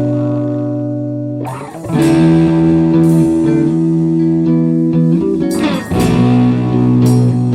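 Rock band recording in an instrumental passage: electric guitar chords over bass ring out and change twice, with no vocals.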